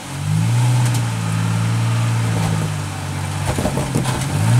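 Off-road vehicle's engine running steadily under throttle with a low drone. It eases off about three seconds in, among a few clicks and knocks, then revs up briefly at the end.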